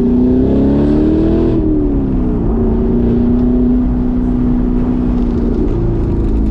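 Chevrolet Corvette C7 Grand Sport's V8 engine under way: the revs climb for about a second and a half, drop back over the next second, then hold steady as the car cruises.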